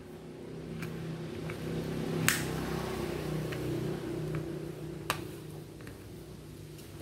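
Metal parts and tools of a disassembled rotary hammer drill clicking and clinking sharply a few times, the loudest a little over two seconds in, over a steady low hum that swells in the middle.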